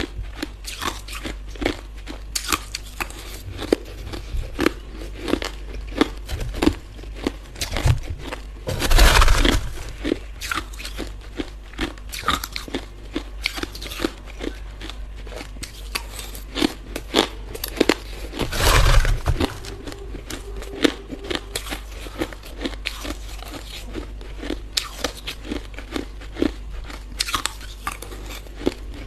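Hard yellow ice being chewed close to the microphone: a steady run of sharp crunches and cracks, with two louder, longer crunches about 9 and 19 seconds in.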